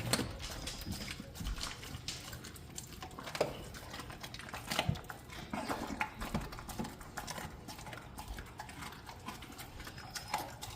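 Mastiff puppy chewing and crunching raw meat and bone, with irregular crunches and clicks.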